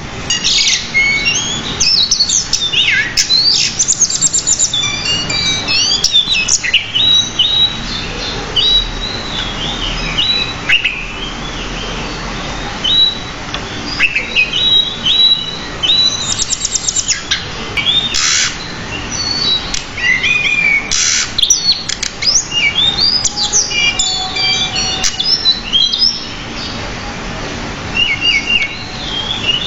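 Pied bushchat (decu) singing non-stop: a rapid, varied run of short chirps, whistled notes and trills, broken by a few brief harsh notes.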